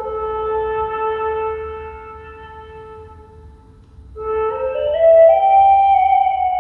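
Flute playing a long, low held note that fades away. After a short pause it climbs in a quick rising run to a higher held note.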